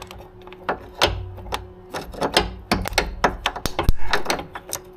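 Irregular metal clicks and clinks as a hex (Allen) key is worked to tighten the transmission plug on a Ford DPS6 dual-clutch gearbox by hand.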